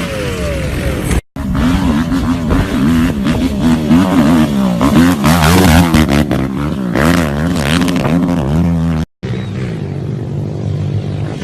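Motorcycle engine revving, its pitch swinging rapidly up and down over and over as the throttle is worked. The sound cuts out abruptly twice, briefly, and after the second cut the engine runs more steadily.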